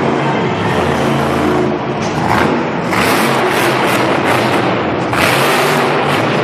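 Monster truck's supercharged V8 engine, loud, running at a steady pitch at first, then revving in surges of roar about three seconds in and again near the end.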